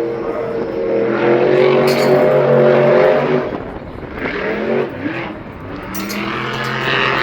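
A motorsport vehicle's engine held at high revs, easing off after about three seconds with a few quick throttle blips, then coming back up to a steady pitch near the end.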